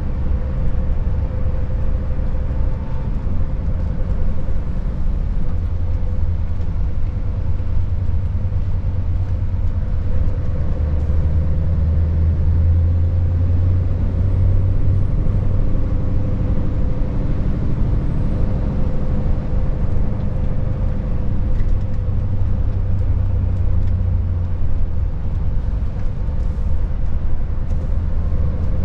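Scania S580's 16-litre V8 diesel engine pulling the truck along, a steady low drone with road noise.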